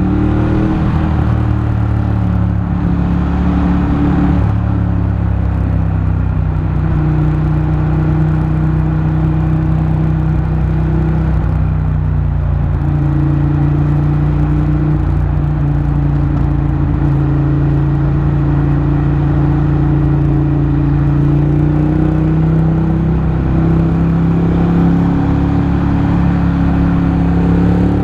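Motorcycle engine running at a steady cruising speed, its pitch drifting slightly up and down, over a constant rumble of road and wind noise.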